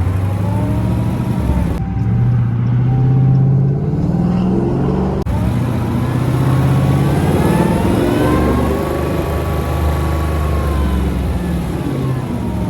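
Supercharged 5.7-litre Hemi V8 of a Dodge Charger R/T, running through a Kooks exhaust, pulling and easing off under way. The engine note and a supercharger whine climb and fall with the revs, with a brief break about five seconds in.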